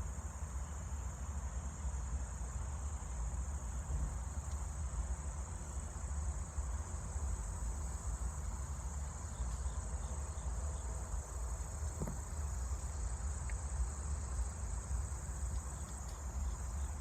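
A steady high-pitched insect chorus, crickets or similar, trilling without a break over a continuous low rumble.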